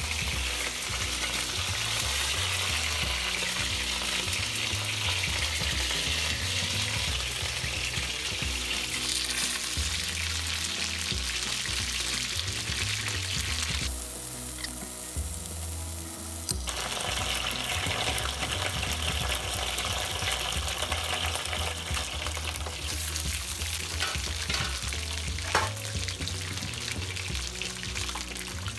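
Chicken pieces deep-frying in hot oil, a steady sizzle. This is the second fry that crisps the karaage's outside. The sizzle drops for a couple of seconds about halfway through, and there are a few sharp clicks near the end.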